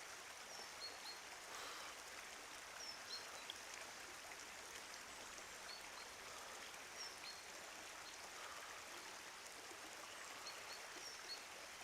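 Faint, steady hiss of flowing water, with brief high bird chirps scattered throughout.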